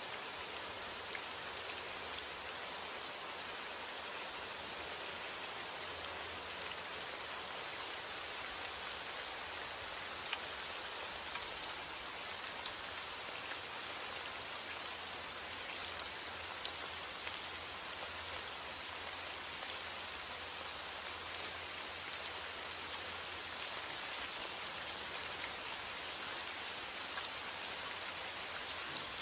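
Heavy rain falling steadily: an even hiss, brightest in the upper range, with many small sharp drop ticks scattered through it.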